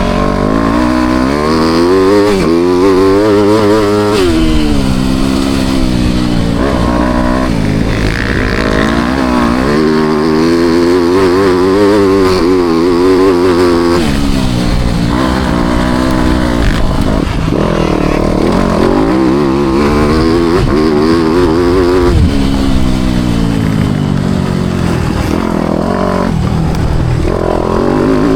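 Four-stroke motocross bike engine under hard riding. It pulls up in pitch over a few seconds, then drops off sharply as the throttle shuts, repeating about every four to eight seconds.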